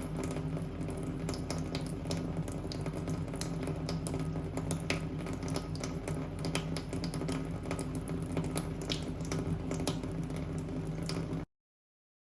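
Running water with many small clicks over a steady low hum; it cuts off abruptly near the end.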